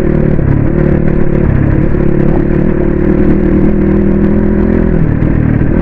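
Suzuki RM250 two-stroke dirt bike engine running under way, its pitch rising and falling as the throttle changes, with a rough clattering noise underneath.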